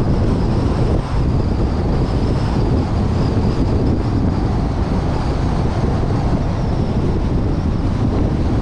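Steady wind noise on a suction-cup-mounted GoPro's microphone over the low, even rumble of a car in motion.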